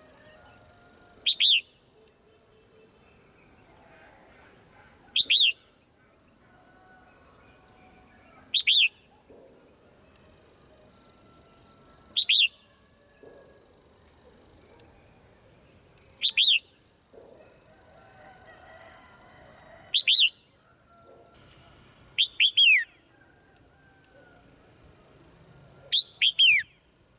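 A bird repeating a short, loud call that sweeps down in pitch, about once every four seconds. The last few come as quick double calls. A steady high hiss runs underneath.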